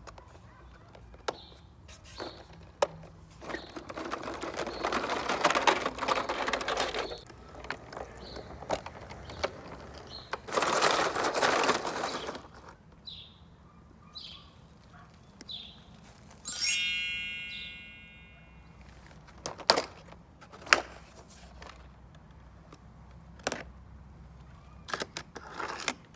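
Small toy vehicles being handled. There are two stretches of a rolling, scraping rattle of several seconds each, scattered clicks and knocks of plastic and metal parts, and one ringing metallic clink about two-thirds of the way through.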